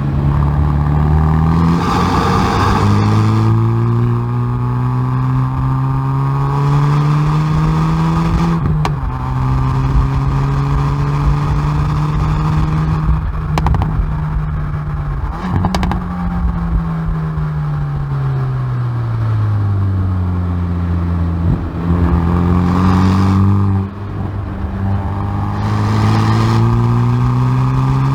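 Hyundai i30N Performance's turbocharged 2.0-litre four-cylinder, heard at the exhaust, accelerating hard through the gears. The engine note climbs steadily, then drops abruptly at each upshift with a short crack, three times in the first half. About halfway through it falls away under braking, climbs again, and shifts once more near the end.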